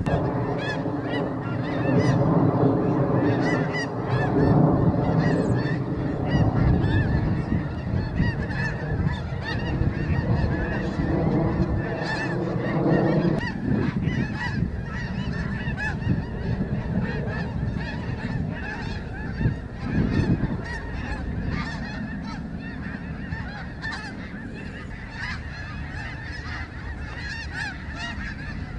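A large flock of snow geese honking, many overlapping calls at once without pause. For the first half a steady low drone runs under the calls, stopping about halfway through.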